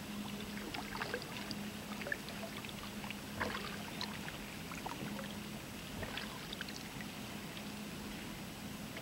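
Kayak paddling: the paddle dipping, with small splashes and water dripping in irregular bursts, the largest about three and a half seconds in, over a faint steady hum.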